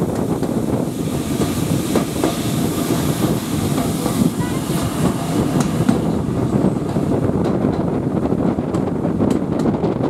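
Passenger carriage of a steam-hauled heritage train running along the line: a steady rumble of wheels on the rails, with sharper clicks over rail joints in the second half.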